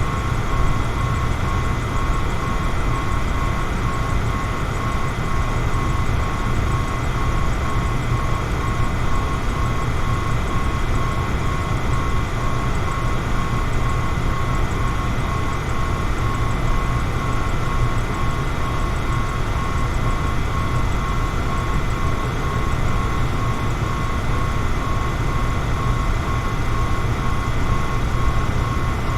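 Electric fan running steadily: an even rush of air over a low hum, with a faint steady whine above it.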